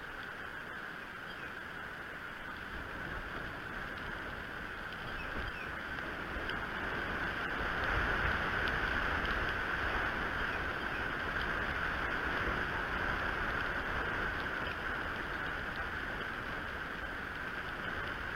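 Wind blowing over an outdoor nest camera's microphone: a steady rushing noise with low buffeting that grows stronger about eight seconds in.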